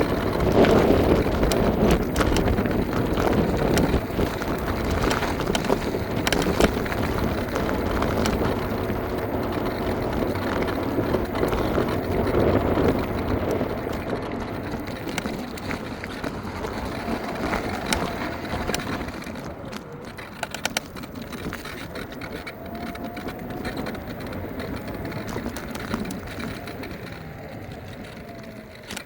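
Riding noise from an electric scooter: wind on the microphone and a steady tyre rumble over the pavement, easing off over the second half.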